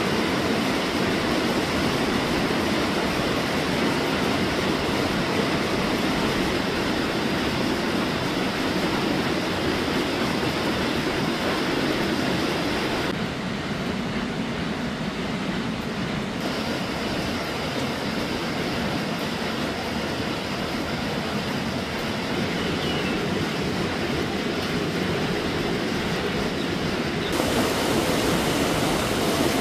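Flash-flood water rushing down a swollen stream after a cloudburst: a loud, steady rush of water whose tone changes abruptly three times.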